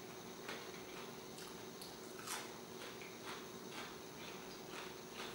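Faint, irregular crunches of someone chewing a mouthful of crispy double-battered deep-fried zucchini.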